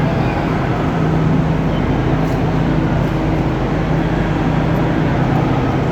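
A vehicle running with a steady low hum over an even rumble.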